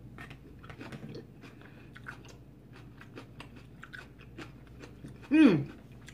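Close chewing of a mouthful of bell-pepper nachos, with many small crunches and mouth clicks. About five seconds in comes a short, loud voiced sound from the eater that slides down in pitch.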